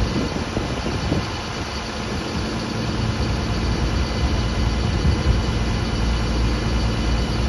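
An engine running steadily: a low rumble with a steady high whine over it.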